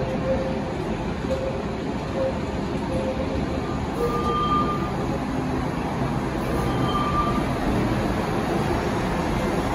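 Matterhorn Gotthard Bahn metre-gauge train, a rake of coaches with Deh 4/4 electric locomotive No. 51 at one end, rolling slowly past with a steady rumble of wheels on rails. Two brief squeals come about four and seven seconds in.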